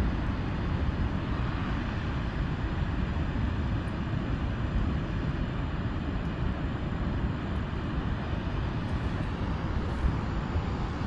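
Steady rushing noise with no distinct events, heaviest in the low end.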